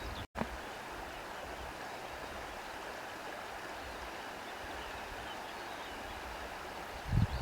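Steady rushing nature ambience, an even outdoor hiss of wind or moving water. The sound cuts out completely for a split second just after the start, and there is a short low thump near the end.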